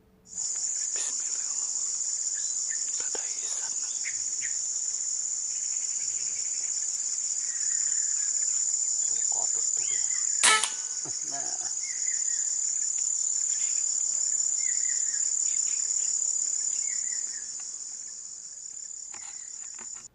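A steady, high insect drone with a fine pulsing texture, starting and stopping abruptly, with faint short bird chirps underneath. A single sharp click about halfway through is the loudest sound.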